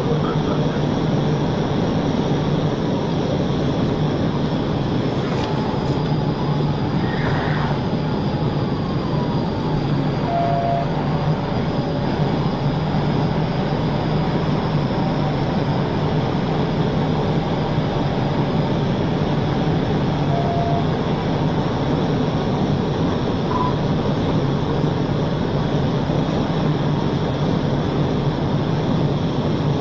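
Steady engine and road noise of a moving patrol car, with a low constant hum. A short electronic beep sounds about every ten seconds.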